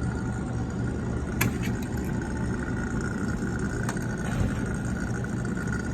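HVAC unit's motor running with a steady hum and a constant whine, with two sharp clicks, about 1.5 and 4 seconds in.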